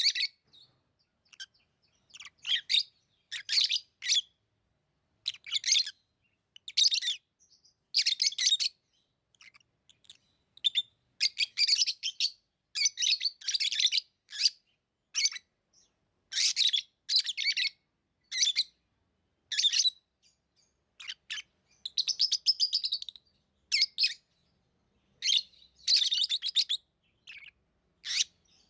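Pet lovebirds chirping in a run of short, high-pitched calls, often about a second apart, with brief silences between them.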